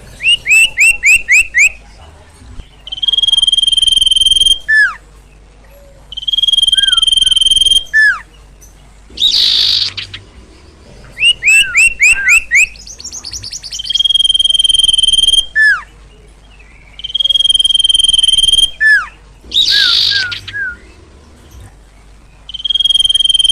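A bird of the kind called sirtu in Indonesian singing loudly and excitedly. Its song is long steady whistles alternating with quick runs of short chirps, falling slurred notes and an occasional harsh rasp, repeated over and over.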